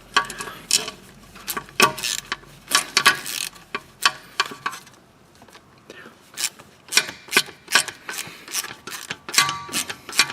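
Irregular sharp clicks and light metallic clatter of hand tools and parts while an ABS wheel-speed sensor and its wire are being fitted and secured at the front hub.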